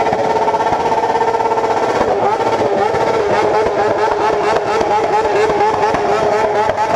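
Motorcycle engines revved hard and held at high revs, the pitch staying level with a rapid, even stutter, typical of bikes bouncing off the rev limiter.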